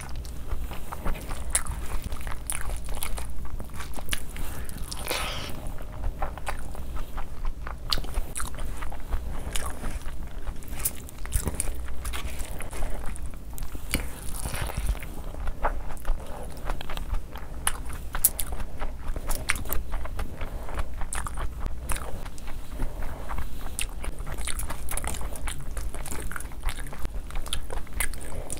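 Close-miked chewing and smacking of a full mouthful of spicy fried rice and gravy-coated chicken, with a steady stream of small wet clicks.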